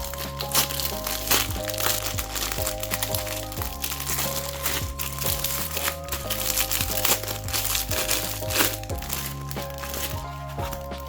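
Background music with a steady bass line, under repeated crinkling and crackling of plastic packaging being handled and opened.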